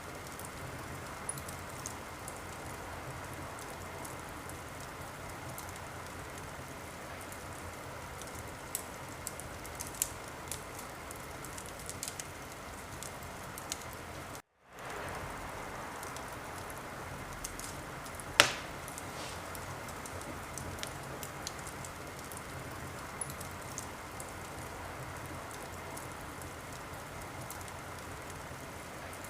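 Wood fire in a fireplace crackling: a steady hiss of burning with scattered small pops and one loud sharp pop about eighteen seconds in. The sound drops out to silence for a split second about halfway through.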